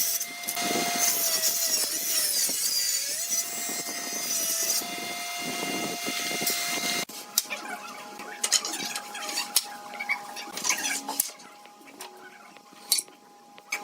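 Electric power tool running as it cuts wood, its motor pitch dipping briefly under load, for about half the time. It cuts off suddenly, and light scattered taps and knocks of wood being handled follow.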